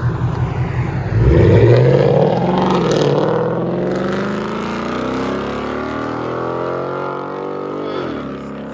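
2015 Mustang GT's 5.0 L Coyote V8 through straight-piped dual exhaust with an X-pipe (mufflers cut off), running at idle and then accelerating hard about a second in. The engine note climbs steadily for several seconds, then drops back near the end with an upshift and starts climbing again.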